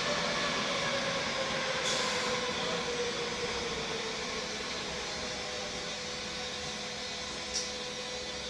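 Madrid Metro Serie 5000 train running through the tunnel: steady rumble and wheel noise, with a motor whine that falls slowly in pitch over the first few seconds. Two brief high squeaks, about two seconds in and near the end.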